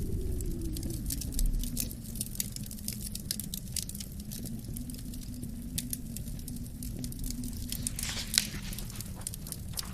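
Wood fire crackling in a fireplace, with many small irregular pops and one sharper pop near the end, over a low winter wind whose moaning tone falls in pitch during the first couple of seconds.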